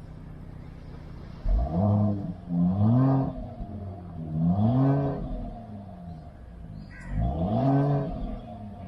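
Exhaust of a Mercedes-Benz S580e W223 with a stainless steel mid pipe and valved muffler: the engine idles steadily, then is revved four times, its pitch rising and falling with each blip, the first about a second and a half in.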